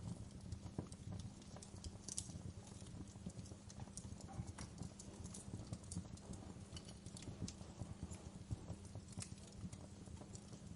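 Wood fire crackling in a fireplace: irregular pops and snaps over a low steady rumble of the flames, with a few sharper snaps standing out.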